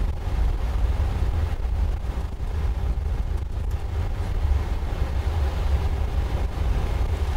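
Steady low rumble of a Boeing 777-200 climbing out after takeoff: engine and airflow noise heard from inside the aircraft.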